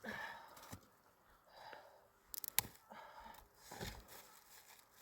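Quiet breathing, with a few soft crunches and sharp clicks about halfway through, as of moving about in deep snow.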